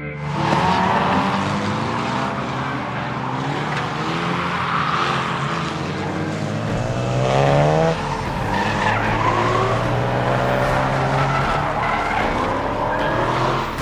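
Drift car's engine revving hard while its tyres squeal and skid in a slide. The revs climb to a peak about seven to eight seconds in, drop off suddenly, then rise again.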